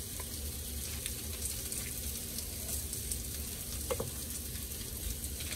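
Onions frying in a pan on the stove, a steady sizzle, with one soft knock about four seconds in.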